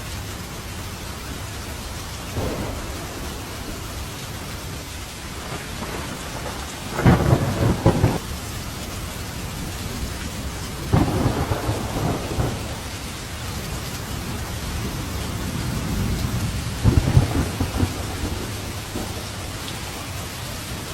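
Steady rain falling through a thunderstorm, with rolls of thunder breaking over it: a small crack about two seconds in, then three crackling thunderclaps, the loudest about seven seconds in and the others around eleven and seventeen seconds in.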